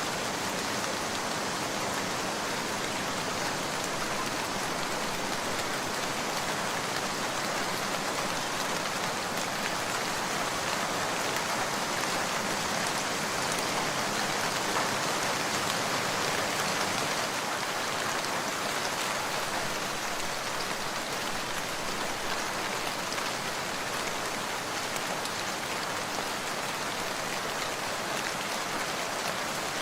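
Steady rain falling, an even hiss of drops that swells slightly in the middle.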